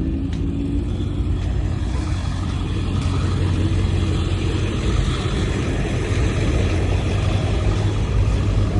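A motor vehicle running with a steady low drone and a wash of noise; a brief higher hum fades out about a second in.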